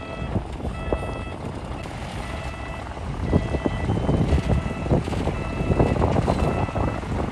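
Reversing alarm of heavy earthmoving machinery beeping about once a second over a running diesel engine. Heavy clattering and crunching builds up from about three seconds in.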